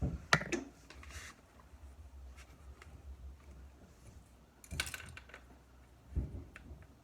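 Scattered light clicks and knocks of things being handled, with a louder clatter about five seconds in and a dull thump just after.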